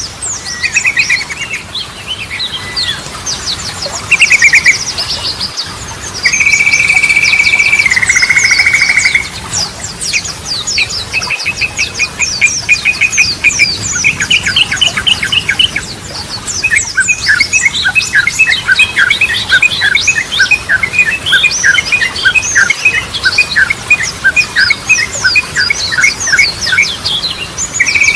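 Yellow-vented bulbul (trucukan) singing a loud, varied song of quick chirps and trills, with a long held whistle that drops a step in pitch, and later a long run of rapid, evenly repeated notes.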